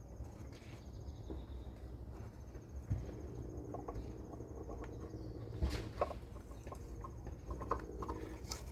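Plastic oil filter housing being unscrewed by hand: a rubbing scrape of the threads from about three seconds in, with a few sharp clicks as it works loose. A cricket trills in pulsing stretches in the background.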